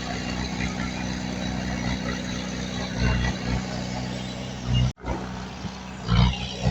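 Diesel engine of heavy earthmoving equipment running steadily. The sound cuts out abruptly for an instant about five seconds in, then swells louder briefly near the end.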